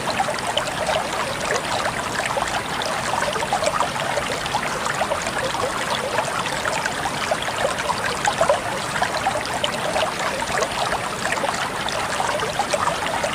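Water flowing and trickling steadily over stones, a continuous babble of small splashes.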